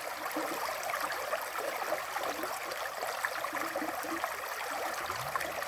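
River water flowing steadily, a continuous rush with small gurgles and splashes running through it.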